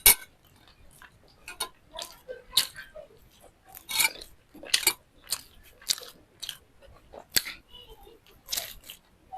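Close-miked eating: crisp bites and chewing crunches, a sharp loud crunch right at the start, then irregular crunches about every half second to a second.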